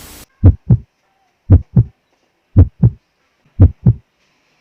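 Heartbeat sound effect: four double thumps (lub-dub) about a second apart, after a brief burst of hiss at the very start.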